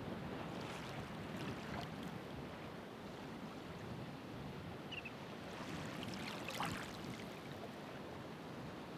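Ocean waves washing on a shore: a steady surf hiss with two surges of splashing, fizzing water, one about half a second in and one around six seconds in. A brief high chirp sounds about five seconds in.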